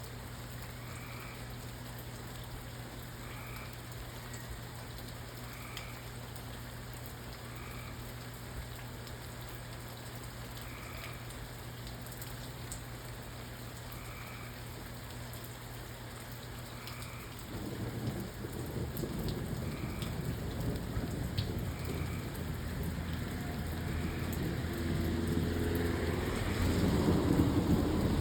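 Steady rain falling, joined about two-thirds of the way in by a long roll of thunder that starts low and builds, loudest near the end.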